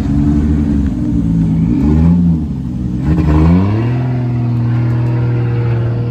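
Car engine revving as it pulls away, the revs rising and falling twice, then holding steady from about four seconds in.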